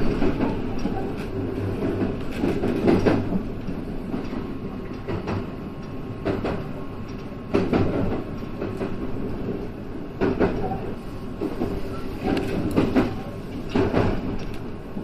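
JR West 223 series electric train running over the points and rail joints of a station approach, heard from inside the front car: a steady running rumble and hum with irregular wheel knocks every second or few.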